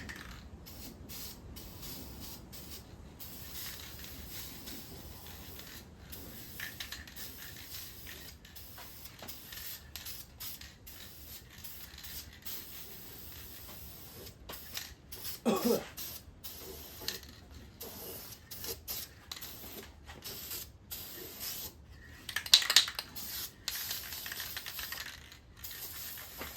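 Aerosol spray-paint can hissing in short bursts with frequent brief pauses as paint is put on an engine block, with one louder burst late on.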